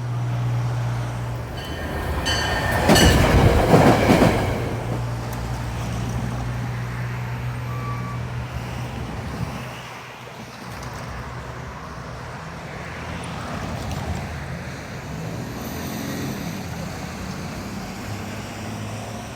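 A vehicle passes close by, loudest about three to four seconds in, over a steady low engine hum that fades after about ten seconds. Quieter road noise follows.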